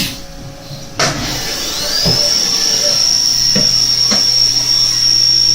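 Haas VF3 CNC mill doing an automatic tool change: the spindle noise cuts off, a sharp clunk comes about a second in as the tool is swapped, then the spindle spins back up with a rising whine that settles into a steady high pitch. A few lighter knocks follow.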